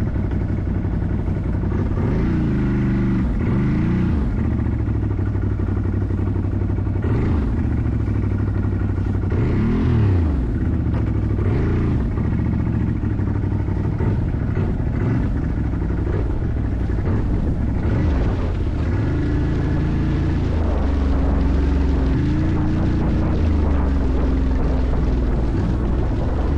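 Off-road vehicle engine running under load. It revs up and down several times in the first half, then holds a steadier pitch for several seconds near the end.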